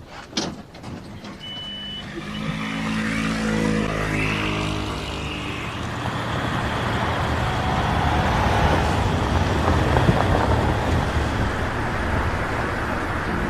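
A couple of knocks, then a car's engine running and the car driving off, its engine hum giving way to steadily louder road noise.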